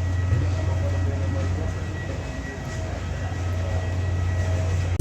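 Steady low drone of an airliner cabin in flight, with a few faint steady tones above it.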